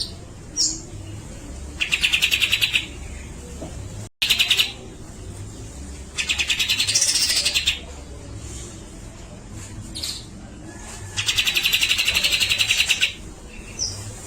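Grey-cheeked bulbul (cucak jenggot) singing: four rapid stuttering chatters, each about a second long, separated by short single notes.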